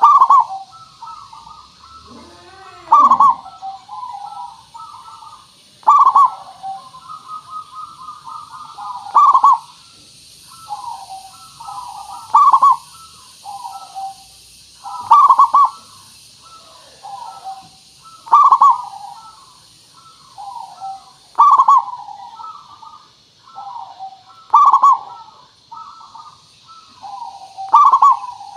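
Zebra dove (perkutut) cooing over and over, with a loud phrase about every three seconds and softer cooing between them, over a steady high hiss.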